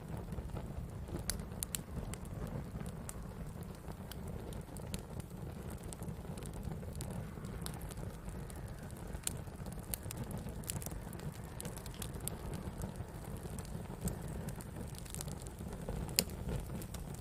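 Wood campfire burning: a steady low rumble under irregular sharp crackles and pops, with one louder pop near the end.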